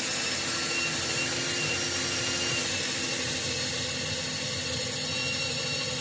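Electric power tool running steadily under load, with a constant whine over a noisy motor sound, working aluminium bar for battery bus bars.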